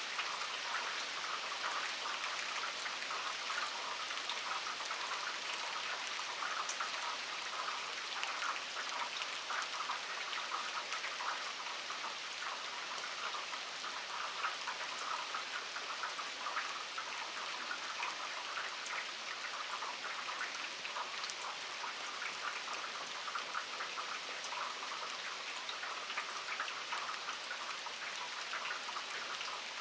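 Steady rain falling on wet pavement and puddles: an even hiss made of many small drop impacts, with no letup.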